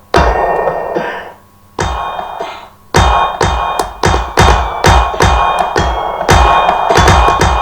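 Roland M-DC1 sound module playing a percussive synth patch struck from drum pads: a hit at the start, another near two seconds, then a fast, even run of about three hits a second. Each hit has a deep thump under a ringing, pitched tone.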